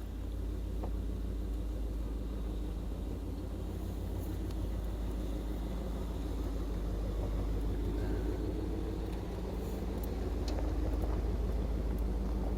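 Pickup truck driving on the road: a steady low engine and road rumble, with a few faint clicks and rattles.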